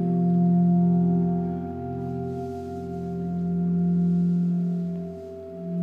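Ambient drone of several steady held tones from a sound art installation, swelling louder and easing back twice.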